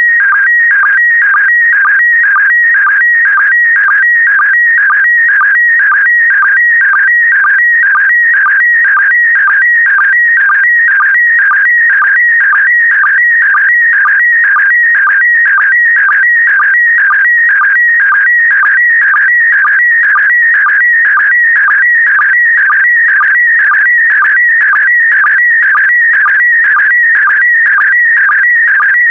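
PD120 slow-scan TV (SSTV) image signal: a loud, warbling whistle-like tone that shifts pitch as it encodes the picture, broken by a short lower blip about twice a second, the sync pulse that starts each new pair of picture lines.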